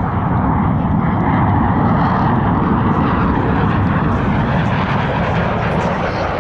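Loud, steady jet engine noise from Blue Angels F/A-18 Super Hornets in flight.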